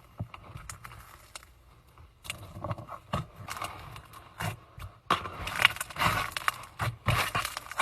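Slime being squeezed and stretched by hand, making wet clicks and pops. The sounds come sparsely at first and grow louder and denser about five seconds in.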